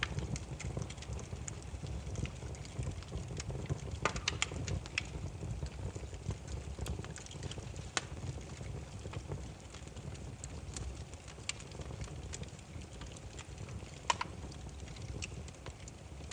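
Burning firewood: a steady low rumble of flames with sharp, irregular crackles and pops, a quick run of them about four seconds in and a louder single pop near the end.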